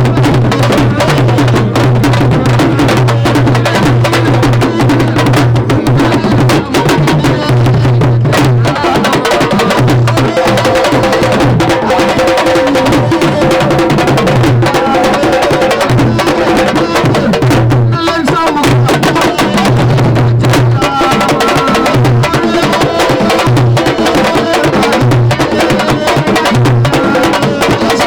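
Loud drum-heavy music: rapid, dense percussion strikes over a low bass pulse that comes and goes, with voices mixed in.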